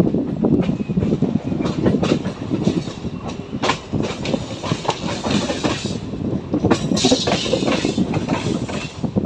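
Running noise of a MEMU electric train heard at an open coach window: wheels rumbling and clacking over rail joints and points, with irregular sharp clicks and a brief rise in hiss about seven seconds in.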